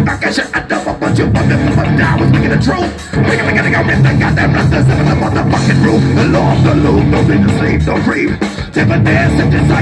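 Live rock band playing an instrumental passage with distorted electric guitar, bass and drums, loud, with two short breaks, about three seconds in and near the end.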